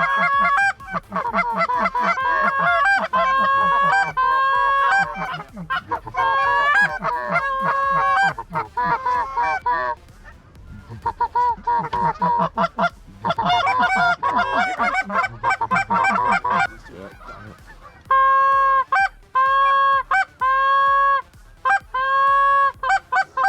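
Canada goose honks in quick, overlapping series, easing off briefly about halfway, then about five evenly spaced single honks near the end.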